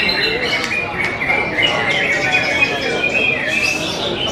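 Many caged greater green leafbirds (cucak hijau) singing at the same time, a dense, unbroken tangle of warbled and whistled phrases, over a murmur of crowd voices.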